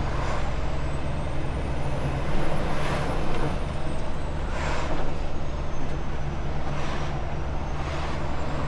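Semi truck's diesel engine running steadily while driving, heard from inside the cab, with a few short bursts of noise on top.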